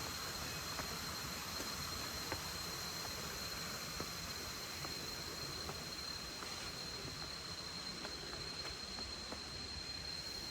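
A steady high-pitched insect drone, one unbroken tone over a constant hiss of outdoor background noise, with a few faint scattered ticks.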